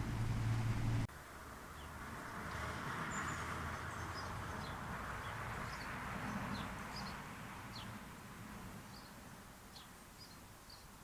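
Small garden birds giving short, high chirps and calls, scattered irregularly, over a faint even background hiss. A steady low hum cuts off abruptly about a second in.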